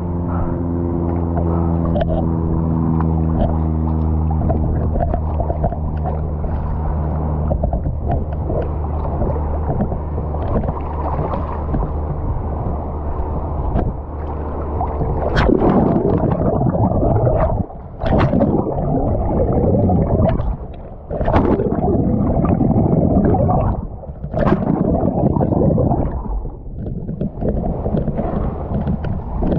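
Water sloshing and gurgling close to the microphone in loud irregular rushes, broken by brief sharp dropouts, from about halfway on. At first a boat motor's steady low hum, which fades out over the first several seconds.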